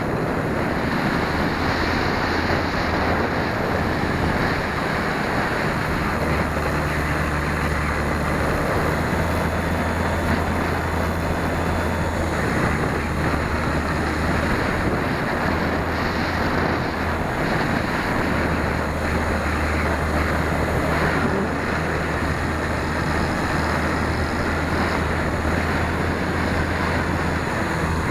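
Strong wind rushing over the microphone of a tail-mounted 808 keychain camera on an RC Super Cub in flight, with a low drone from the plane's brushless motor and propeller that cuts in and out several times.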